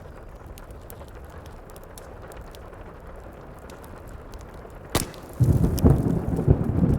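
Steady heavy rain with a fireplace crackling in small pops. About five seconds in, a sharp thunderclap, then loud low rolling thunder.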